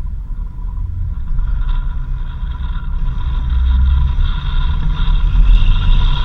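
Four-wheel-drive vehicle driving on a dirt road: a steady low rumble, with a whine joining from about a second and a half in and growing louder.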